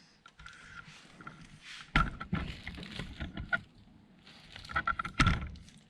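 Two sharp knocks, about two seconds and five seconds in, with rustling and hissing after each, from hands and tools working on car headlight wiring.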